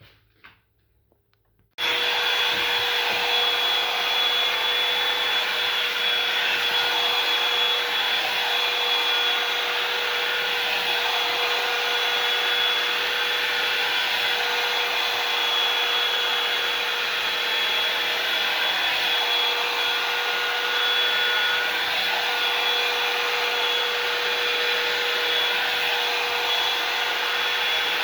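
Hand-held hair dryer switched on about two seconds in, then running steadily with a constant whine over its fan noise.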